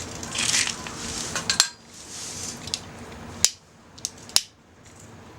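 Sharp metal clinks and taps against a small steel fire grill as the wood fire is tended, about four distinct clicks in the second half, with short hissing rushes early on.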